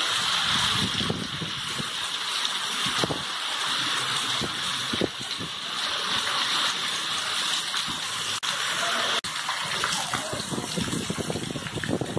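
Heavy rain pouring onto paved ground as a steady hiss, with water streaming off the roof edge and splashing.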